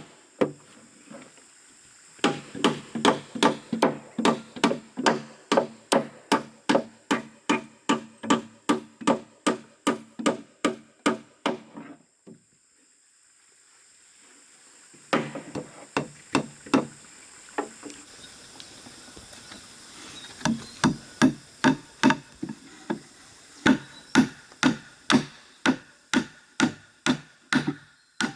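A hand tool striking wood again and again, about three blows a second, in two long runs separated by a pause of about three seconds.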